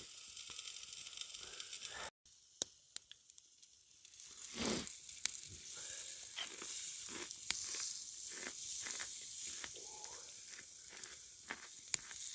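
Meat sizzling on a flat rock used as a griddle over a campfire: a steady hiss broken by sharp pops and crackles. The sound drops away briefly about two seconds in, then the sizzling returns.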